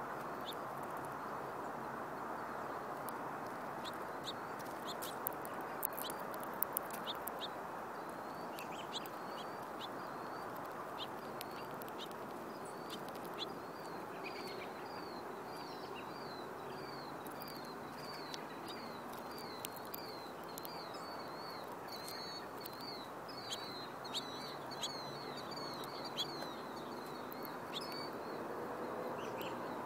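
Small birds at a seed feeder: a bird gives a long run of short, high chirps, about two a second and quickening toward the end, with scattered sharp clicks earlier on, over a steady background rush.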